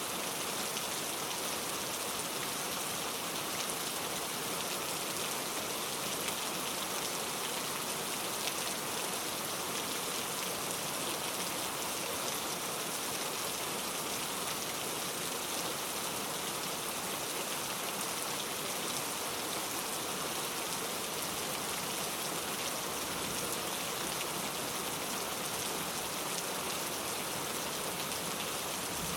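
Steady rain falling, with a dense patter of drops on a surface and no thunder.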